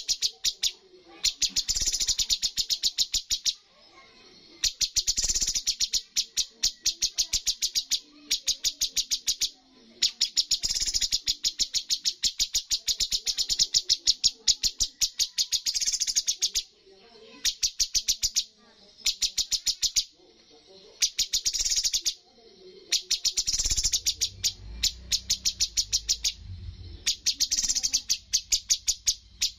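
Cucak cungkok singing in rapid trains of sharp repeated notes, each burst lasting one to two seconds with short pauses between: the fast 'tembakan' (shooting) delivery prized in songbird contests. A faint low hum comes in near the end.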